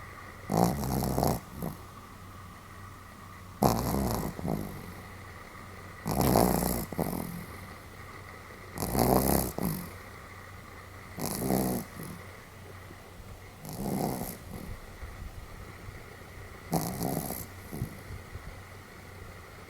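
A Pomeranian snoring in its sleep, fairly hearty, with a rough snore about every two and a half seconds, seven in all.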